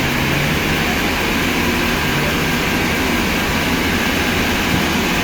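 Steady, loud machine noise without clear strokes or pauses.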